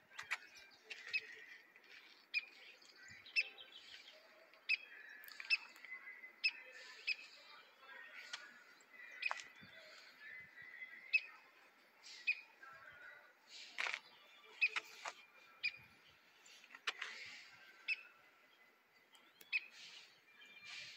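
Birds chirping: short, sharp calls repeated about once a second.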